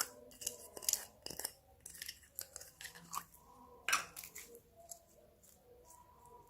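Slime being squished and stretched by hand, giving irregular sticky clicks and crackles, with one louder pop about four seconds in and only faint clicks after that.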